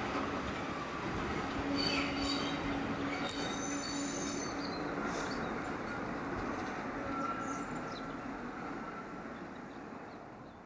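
Passenger coaches rolling away over a bridge and round a curve, with wheel flanges squealing in thin high whines for the first few seconds. The rumble slowly fades as the train recedes.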